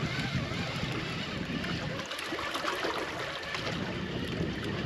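Water sloshing against a small anchored boat's hull, with wind buffeting the microphone.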